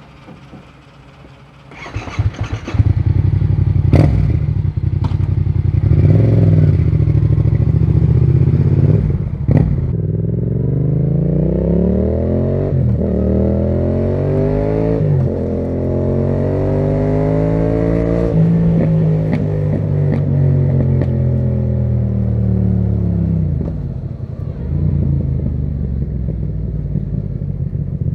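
Yamaha MT-07 parallel-twin with a Termignoni exhaust: it comes in about two seconds in and runs at a low, uneven beat. It then pulls up in pitch in three climbs with two short breaks, and winds back down to a steady low note near the end.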